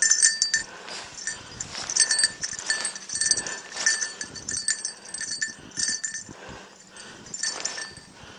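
A small bell on a search-and-rescue border collie jingles in quick irregular bursts as the dog moves, with crunching in snow. The bursts thin out near the end.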